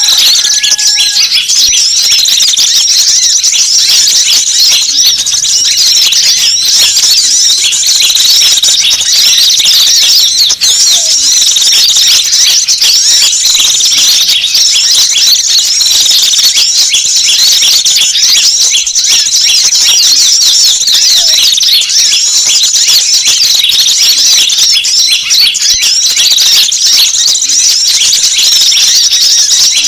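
Bird-lure recording of many small wild birds calling at once: a loud, unbroken chorus of high-pitched chirps and twitters, used to draw small birds in.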